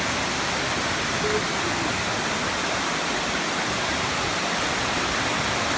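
Waterfall pouring steadily, an even unbroken rush of falling water.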